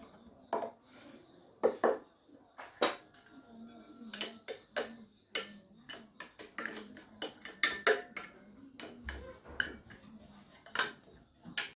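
Metal tools and parts clinking and knocking against each other in many short, irregular strikes, as in hands-on repair work.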